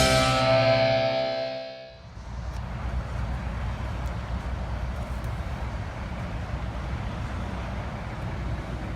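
Guitar music fades out over the first two seconds. A steady low rumble of vehicle and road traffic noise follows.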